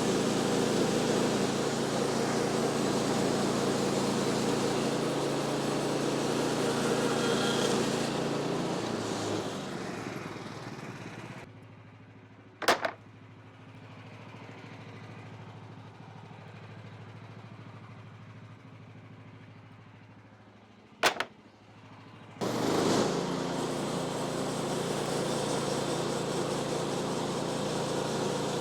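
Sawmill's gas engine running steadily, dropping away to a much quieter stretch broken by two sharp knocks, then running loud again near the end.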